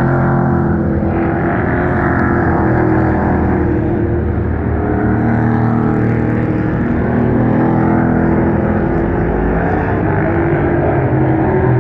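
A field of Pro Truck race trucks running laps together, their engines loud and steady, with the pitch rising and falling slightly as the trucks come off and into the turns.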